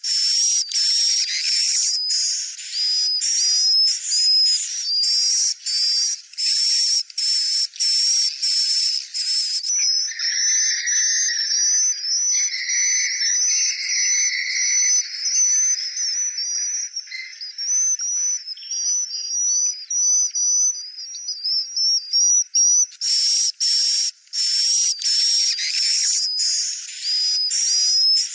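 Swiftlet calls: loud, rapid, high twittering chirps with no low end at all. From about ten seconds in it changes to a sparser, lower chirping for some thirteen seconds, then the dense chirping returns.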